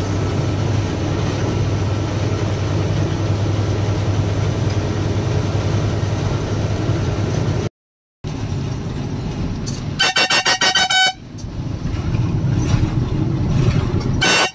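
Lorry's diesel engine droning steadily, with a brief dropout about halfway through. Then the truck horn sounds in a loud, rapidly pulsing blast about a second long, and once more briefly near the end, as a warning on a winding hill bend.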